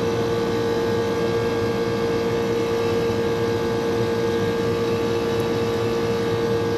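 Rooftop air-conditioning unit running with one of its two compressors on: a steady machine hum with one strong held tone.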